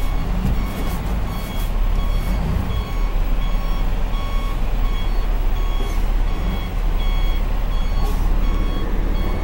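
Garbage truck's reverse alarm beeping repeatedly as the truck backs up, over the steady low rumble of its diesel engine.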